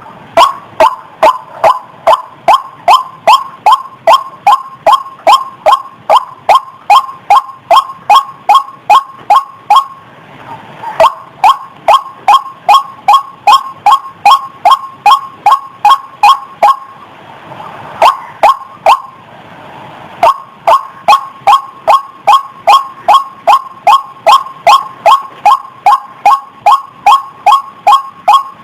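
White-breasted waterhen (ruak-ruak) calling a loud, fast, steady run of 'kwak' notes, about two and a half a second, broken by two short pauses.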